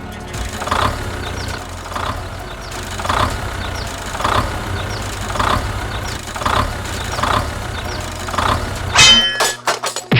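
Mini tractor running: a steady low drone with a regular swelling pulse about once a second, and a short high squeal about nine seconds in.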